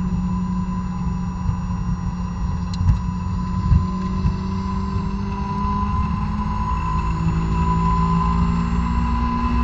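2006 Honda S2000's 2.2-litre four-cylinder engine, stock exhaust and intake, pulling on throttle at around 5,500 rpm, heard from inside the cabin with wind and tyre noise. Its pitch climbs toward about 6,700 rpm near the end. A couple of brief thumps come about three to four seconds in.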